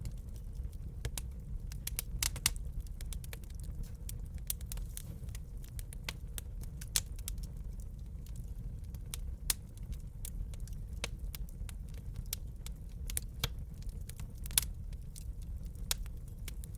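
Burning wood crackling in a fireplace: irregular sharp pops and snaps, a few louder ones standing out, over a steady low rumble of the fire.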